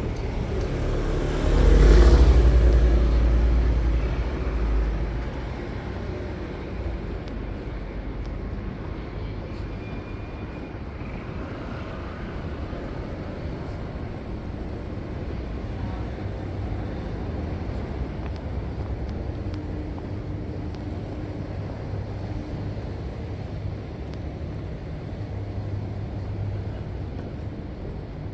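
City street traffic: a vehicle passes close, loudest about two seconds in and fading over the next few seconds, then a steady rumble of traffic.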